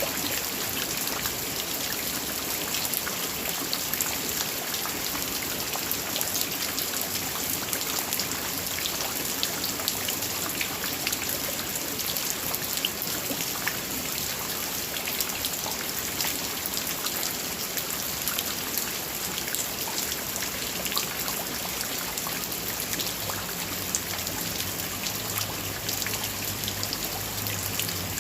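Heavy rain falling steadily, with the patter of countless drops striking surfaces close by.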